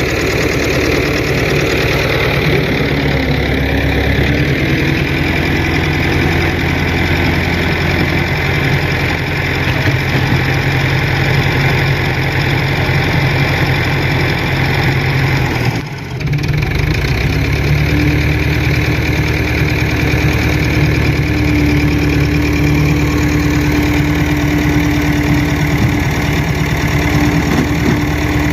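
Fordson Super Major tractor's four-cylinder diesel engine running steadily, with a short dip about halfway through. A steady whine joins in and holds through most of the second half.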